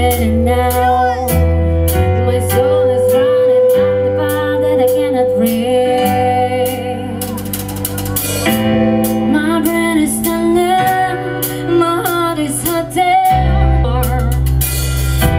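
Live rock cover band playing: electric guitar, bass and drum kit, with a melodic line winding over a steady beat.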